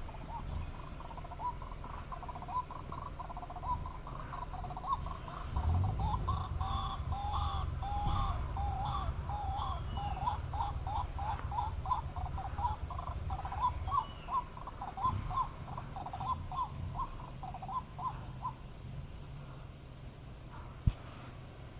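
A bird calling in a long run of short, repeated notes, about two a second, that stops a few seconds before the end. A steady high insect drone and a low rumble run underneath, with one sharp click near the end.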